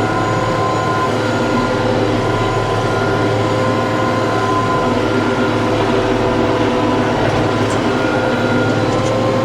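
TYM T654 tractor's diesel engine running steadily at a constant speed.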